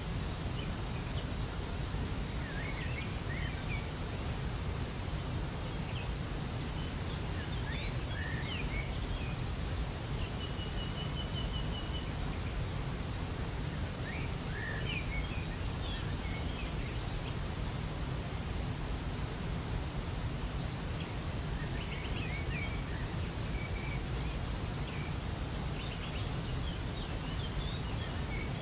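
Steady rush of a waterfall with songbirds chirping and whistling over it, including a short rapid trill about ten seconds in.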